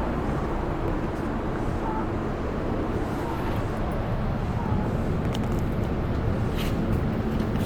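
Running sound of a JR East E233-series electric commuter train heard from inside the car: a steady rumble of wheels on rail, with a few faint light clicks near the end.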